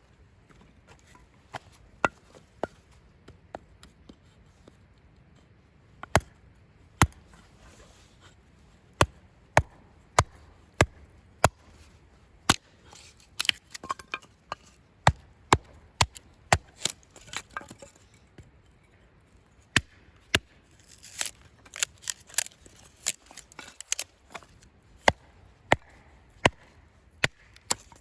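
Knife chopping on a cutting board: sharp, separate strikes at an uneven pace, sometimes several in quick succession, with short pauses between.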